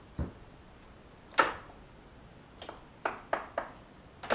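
Metal lathe controls being handled and shifted into gear: a handful of separate sharp metallic clicks and clunks, the loudest about a second and a half in. Right at the end the lathe starts running with a steady mechanical whirr of its gears.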